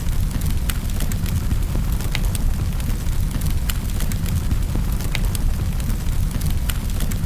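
Wood fire crackling in a fireplace: a steady low rumble of flames with irregular sharp pops and snaps scattered throughout.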